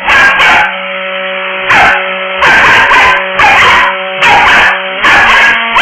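Dog barking repeatedly, about once a second, at a running hair dryer, whose steady motor hum sounds underneath; the dog hates the dryer.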